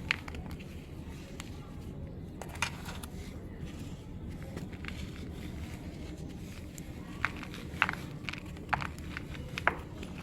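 Clumps of black soil crumbling, with scattered sharp crackles and crunches, most of them bunched together in the last few seconds.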